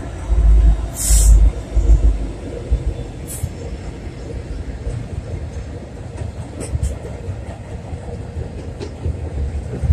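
Norfolk Southern double-stack container train rolling over a steel trestle bridge: a steady low rumble, loudest in the first two seconds as the trailing diesel locomotive passes, then the stacked well cars. There is a brief sharp hiss about a second in and a few sharp clicks later on.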